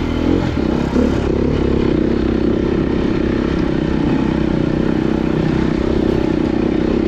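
Dirt bike engine running steadily under load while being ridden through a rough off-road section, with some clatter from the bike over the rough ground.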